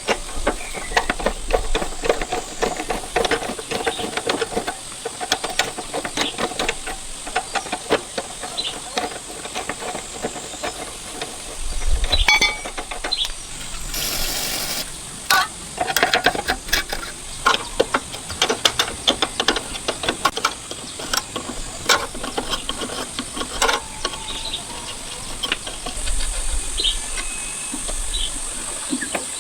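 Workshop hand work: many short clicks and knocks of tools on parts, over a steady high hiss, with a brief loud hiss about halfway through.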